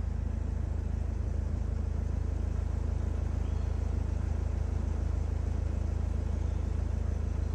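Steady low rumble of a car's engine and tyres while driving.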